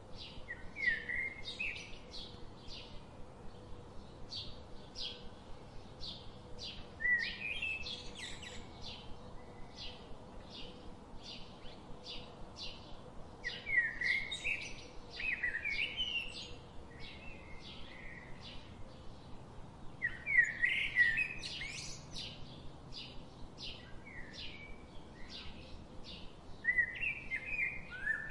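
Birds calling: a steady run of short high chirps about twice a second, with a louder warbling phrase every six or seven seconds.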